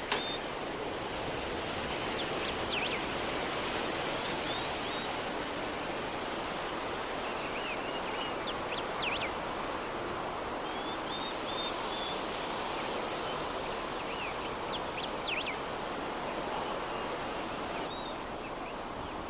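A soft, steady breeze, heard as an even hiss, with small birds chirping now and then in short clusters of quick high notes. A brief click comes right at the start.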